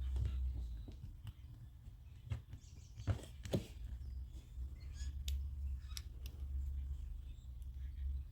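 Scattered light clicks and taps of small metal parts being worked by hand on a car door lock and its retaining clip, with two louder knocks about three seconds in, over a steady low hum.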